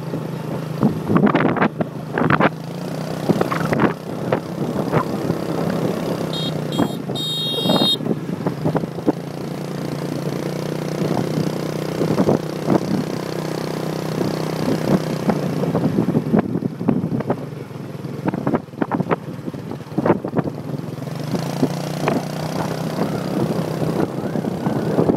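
Motorbike engine running steadily on the move, with frequent short knocks and gusts on the microphone. A brief high-pitched patterned sound comes about seven seconds in.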